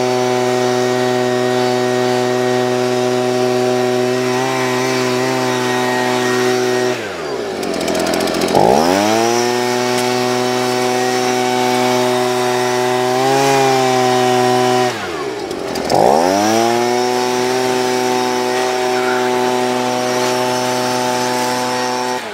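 Leaf blower running steadily at full speed, blowing dust out of a car. Its pitch drops sharply and climbs back twice, about 7 and 15 seconds in, as the throttle is let off and opened again.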